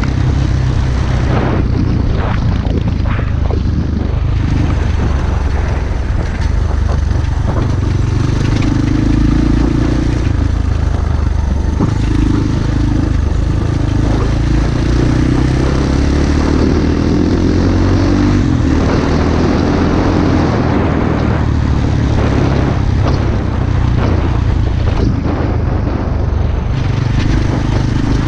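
Pit-bike engine running steadily under way, with a constant low drone and noise of riding over it.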